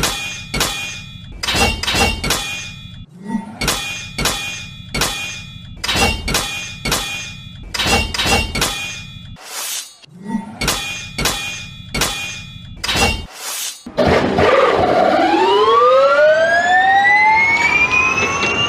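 Steel swords clashing in a rapid series of ringing metallic clangs. About fourteen seconds in, a Formula 1 car engine takes over, its note rising steadily in pitch.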